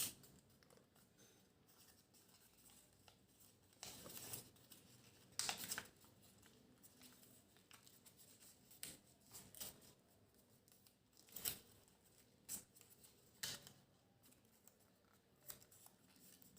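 Faint rustles and short crackles of a sheet of origami paper being handled and folded inwards, scattered every few seconds.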